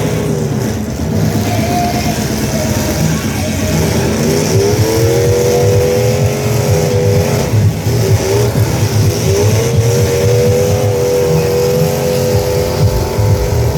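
Truck engines running hard in a demolition derby. One engine revs up about a third of the way in and holds high, eases off briefly, then revs up again and holds high to the end, over a steady low rumble.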